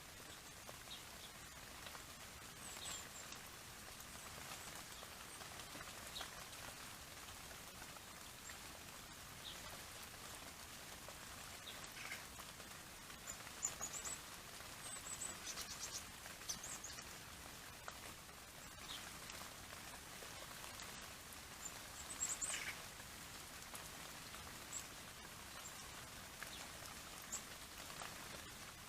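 Steady hiss with scattered brief, very high-pitched small-bird chirps. They come in clusters around the middle and again about two-thirds of the way through, with a few faint ticks in between.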